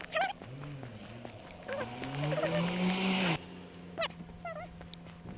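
Animal calls: short warbling cries and a longer low call rising in pitch, over a steady hum; the background noise cuts off abruptly about three and a half seconds in.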